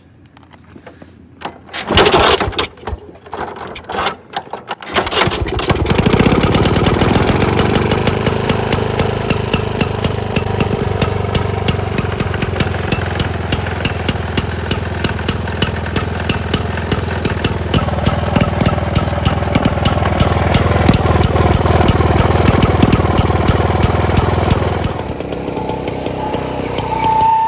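1922 Neracar's 200cc single-cylinder two-stroke engine being kick-started: a few seconds of clattering kicks, then it catches about five seconds in, revs up and settles into a fast, even running beat. It becomes somewhat quieter near the end.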